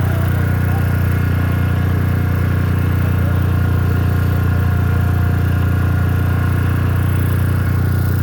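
Core drilling rig running steadily through a cut, a loud, even low drone with no change in speed.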